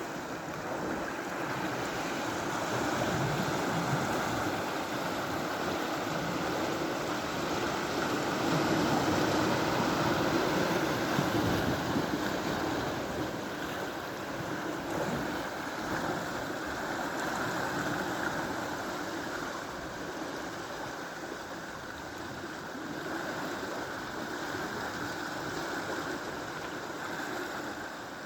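Sea waves washing on the shore: a steady rush of surf that swells and eases over several seconds.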